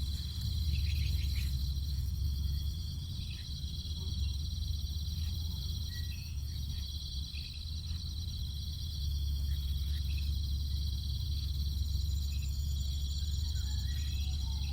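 A steady chorus of crickets and other insects, with a fine pulsing trill held high in pitch, over a steady low rumble, and scattered short faint chirps.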